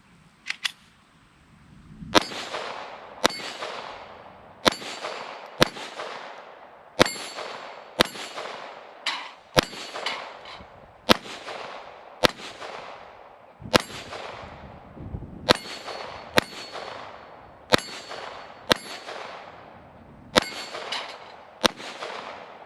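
Taurus TX22 .22 LR pistol firing a long string of single shots at a steady pace of roughly one a second, each sharp crack trailing off over about a second.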